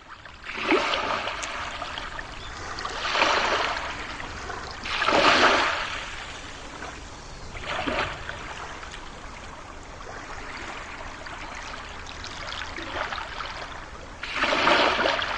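Water sound effect: a steady rush of moving water with several louder surges, each lasting about a second.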